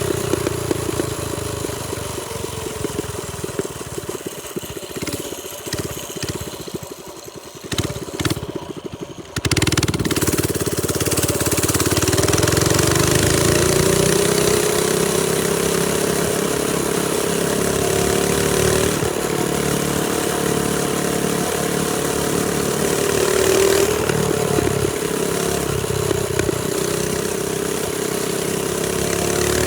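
Trailmaster Storm 200 minibike's single-cylinder engine idling unevenly, then throttled up sharply about nine seconds in and running hard as the bike rides, its pitch rising and falling with the throttle.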